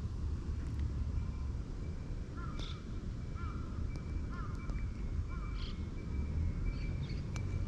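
A bird calls about five times in quick succession, short evenly spaced calls, over a steady low outdoor rumble.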